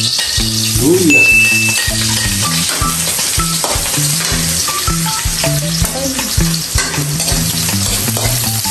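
Sliced ginger sautéing in hot oil in an aluminium wok, sizzling steadily while a metal ladle stirs it, with frequent short clicks and scrapes of the ladle against the pan.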